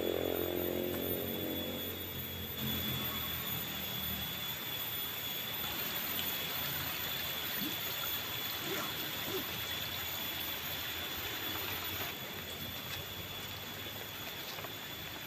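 Stihl 070 two-stroke chainsaw running. Its engine note is clear for the first couple of seconds, then gives way to a steady rushing noise.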